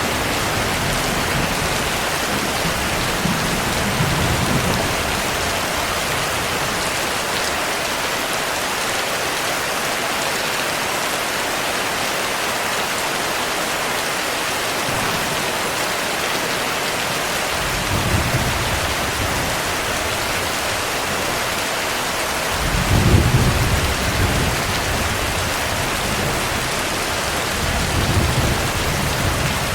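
Steady heavy rain hissing, with thunder rumbling low several times; the loudest roll comes about two-thirds of the way through.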